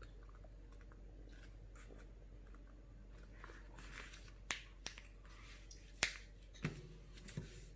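A sheet of paper being folded and creased by hand: faint rustling with a few sharp, crisp snaps of the paper, the loudest about six seconds in.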